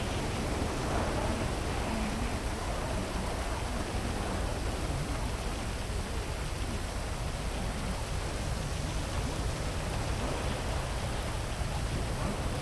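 Heavy rain falling steadily: an even hiss over a deep rumble underneath.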